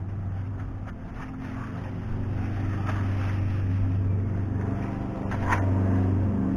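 Harbor Freight cordless drill running steadily under load, its motor hum growing slowly louder, with one sharp click about five and a half seconds in.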